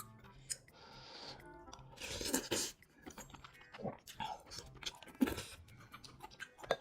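A person chewing food close to the microphone, with crunching and wet mouth clicks. The loudest crunch comes about two seconds in.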